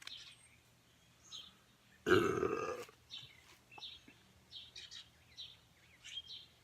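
A person burps once, about two seconds in, lasting under a second. Small birds chirp faintly throughout.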